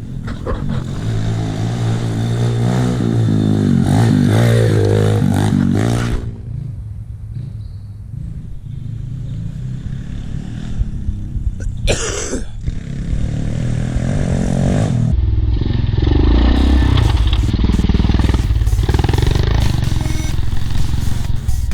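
Pit bike engine revving as the bike is ridden. It climbs in pitch over the first few seconds, drops back about six seconds in, and picks up again later with a heavy low rumble. There is a sharp noise about twelve seconds in.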